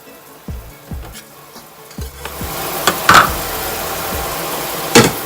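Water rushing steadily into a kitchen sink as a pot of cooked spaghetti is drained, starting about two seconds in, with a few sharp metal knocks of the pot. Before it, quiet background music with a soft beat.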